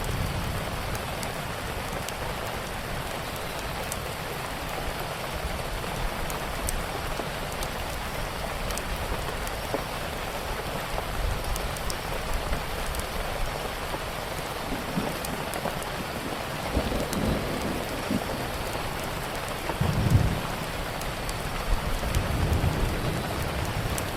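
Steady rain with the scattered pops and clicks of a crackling wood fire. A few low rumbles swell up, the loudest about twenty seconds in.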